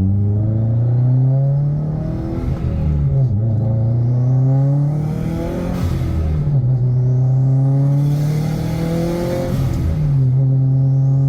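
Turbocharged flat-four engine of a modified 2017 Subaru WRX STI accelerating hard through the gears. The engine note climbs on each pull and drops at each gear change, three times over.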